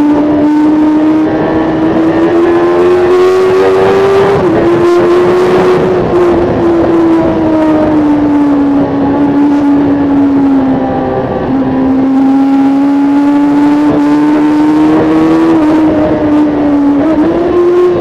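2005 Kawasaki ZX-10R's inline-four engine running hard at high revs, heard on board over wind rush. Its pitch climbs, drops a step about four and a half seconds in at an upshift, sags as the rider rolls off the throttle, then climbs again and jumps briefly near the end.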